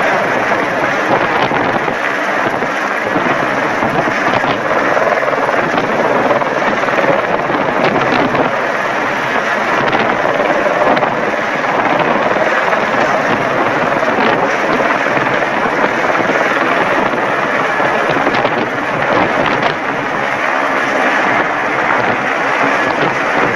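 Helicopter running close by: loud, steady rotor and engine noise that holds even throughout.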